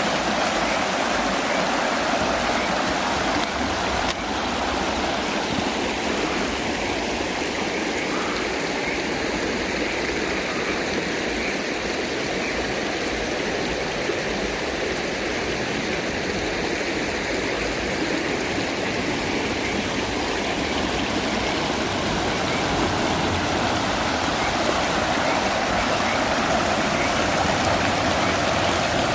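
Creek water flowing, a steady, unbroken sound of running water.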